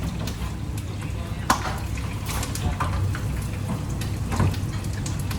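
Kitchen sounds: water running at a sink with a few short clinks over a steady low hum, and faint voices in the background.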